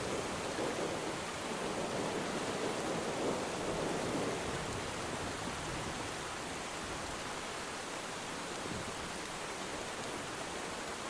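Steady hiss of rainfall over the sea, with a wave swelling and washing in during the first few seconds before easing back to the even rain.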